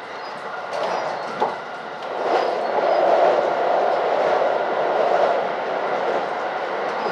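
Train running at speed, heard from inside the carriage. The wheel rumble grows louder about two seconds in as the train crosses a steel truss bridge, with a few sharp rail-joint clicks, and it eases off near the end as the train leaves the bridge.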